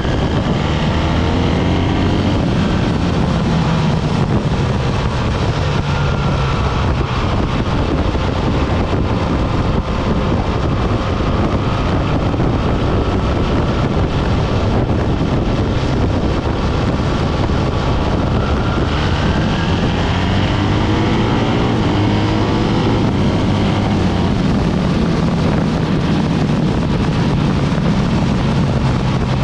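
BMW R 1300 GS motorcycle under way: its boxer-twin engine runs steadily, the note rising and falling a couple of times as the revs change. Heavy wind rush over the microphone.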